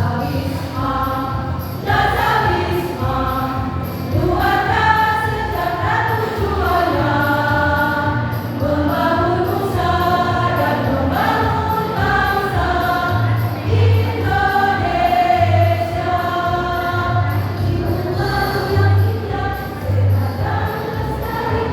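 A choir singing, with sustained notes that move between pitches, accompanied by a recurring low beat.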